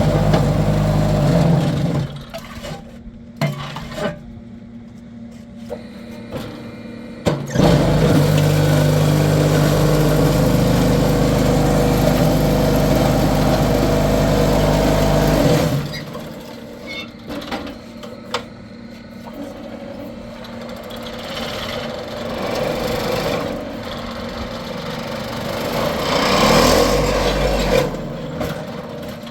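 An engine running loudly with a steady low hum in two stretches, cutting out abruptly after about a second and again after about eight seconds. Quieter spells between and after carry scattered knocks.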